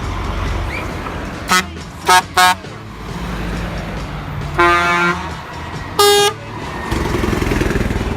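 Truck horns sounding over a steady low engine rumble: three quick toots, then a longer, lower blast and one more short one of a different pitch.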